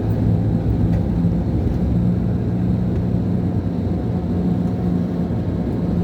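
Scania K440 coach's rear-mounted DC13 inline-six diesel running steadily, heard from inside the coach as a steady low drone.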